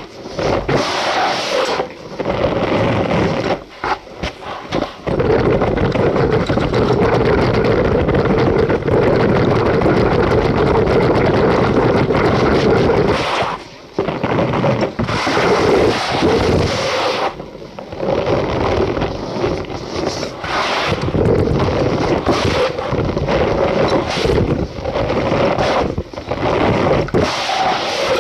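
Cornstarch powder being squeezed and crushed, a dense squeaky crunching that runs almost without a break, pausing briefly several times and for about half a second a little before the midpoint.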